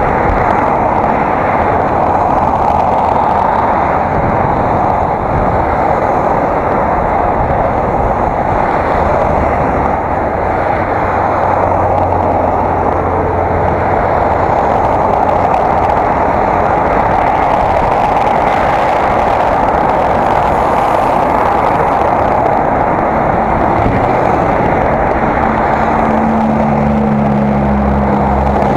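Steady rushing noise of riding a bicycle, picked up by an action camera's microphone. A low engine hum from motor traffic comes in midway and again near the end.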